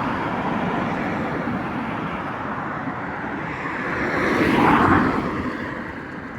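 Road traffic going by, with one vehicle passing close: it grows louder to a peak about four and a half seconds in, then fades away.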